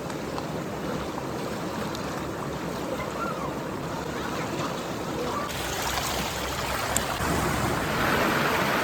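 Steady rushing water, growing louder near the end, with a sudden change in tone about five and a half seconds in.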